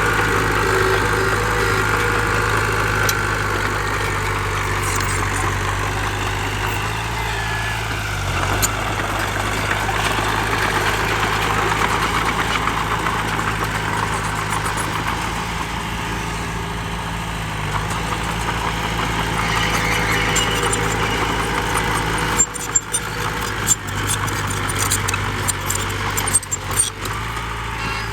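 Diesel engine of heavy earthmoving machinery (bulldozer or dump truck) running steadily, with several sharp clicks near the end.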